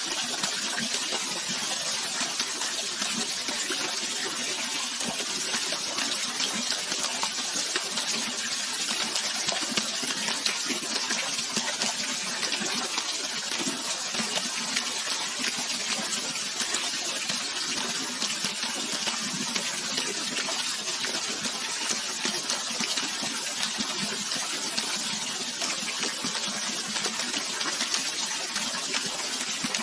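Steady rush of flowing water, as of a waterfall or river, constant with no breaks, bright and hissy with little low rumble.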